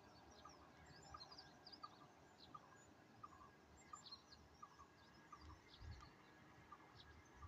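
Faint chirping of several small birds, with one short note repeating about twice a second, over a soft background hiss. A soft low rumble comes near the end.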